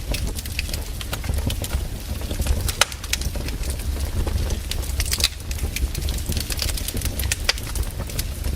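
Firewood burning and crackling: irregular sharp pops and snaps over a steady low rumble.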